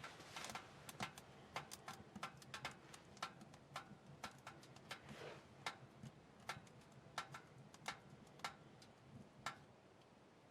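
Wood crackling as the fire catches inside a Tent-Mark Side View M wood stove: faint, sharp, irregular pops, one or two a second, thinning out and stopping near the end.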